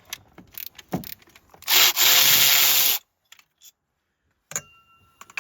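Cordless electric ratchet running in one burst of a little over a second, its motor whine rising and then holding, while it spins a coil-pack bolt. Small clicks and knocks of tools and parts being handled come before it.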